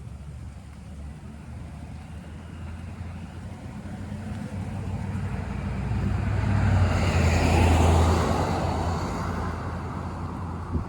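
A car driving past on the street, its engine hum and tyre noise growing louder to a peak about seven or eight seconds in, then fading as it moves away.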